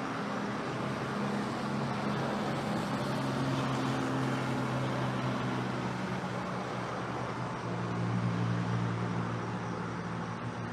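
An engine running, a low hum that shifts in pitch and swells about two-thirds of the way in, over a steady wash of noise.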